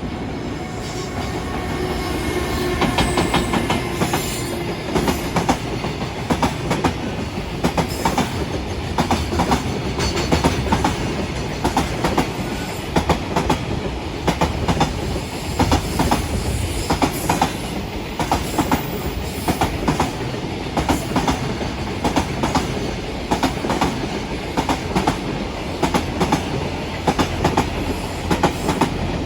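A long train passing close by, its wheels clattering over the rail joints in a steady run of clicks over a continuous rumble.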